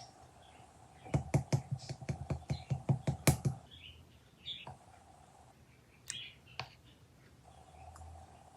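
A quick run of about a dozen sharp clicks or taps over two and a half seconds, then a few scattered clicks, with a faint steady hum cutting in and out.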